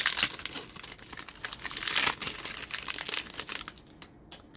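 Crinkling of a plastic trading-card pack wrapper being torn open and handled, loudest about two seconds in and dying away near the end.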